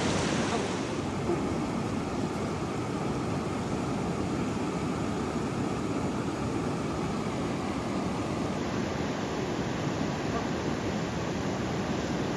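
Steady rushing water noise from a river flowing over rocks, a continuous even rush; the higher hiss eases slightly about a second in.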